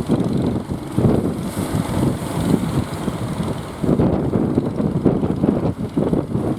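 Strong wind buffeting the microphone: an uneven, gusting low rumble that swells and drops every second or so.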